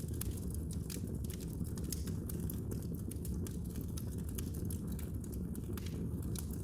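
Wood fire burning in a fireplace: many short, irregular crackles and pops over a steady low rumble of the flames.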